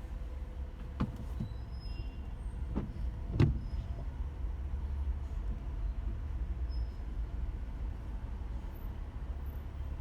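Car cabin noise while driving in slow traffic: a steady low rumble of engine and road, with a few sharp knocks in the first few seconds, the loudest about three and a half seconds in.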